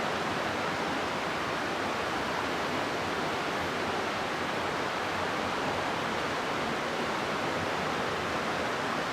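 River water rushing steadily through a rocky gorge, an even, unbroken rush of flowing water.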